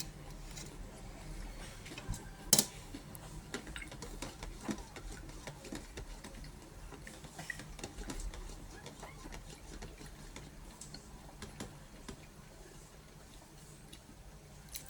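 Eating sounds: scattered small clicks and crunches from chewing toasted bread, with one sharper click about two and a half seconds in.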